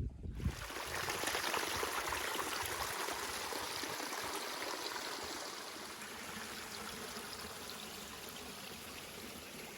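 Steady rush of a stream's flowing water, starting abruptly just after the start and slowly growing fainter.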